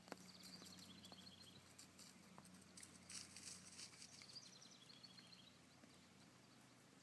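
Near silence: faint outdoor ambience with a low steady hum and a few faint high chirping trills.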